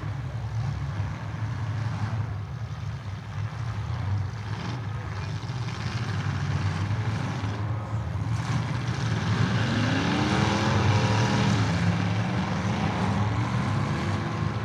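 Several demolition derby cars' engines running together, with engines revving up in rising pitch from about two thirds of the way through as the cars get moving.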